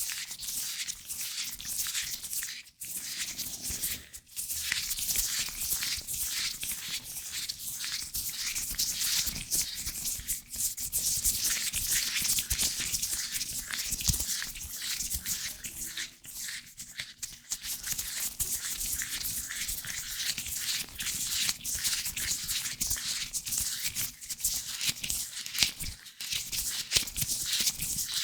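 Latex-gloved hands rubbing and scratching right on a microphone: a continuous, close, scratchy rustling with a couple of brief pauses near the start.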